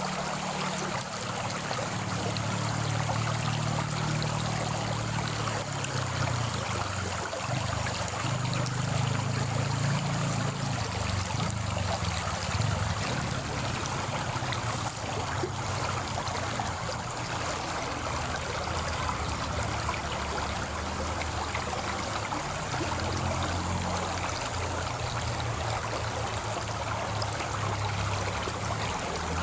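Steady rush and trickle of flowing stream water, with a low wavering rumble underneath.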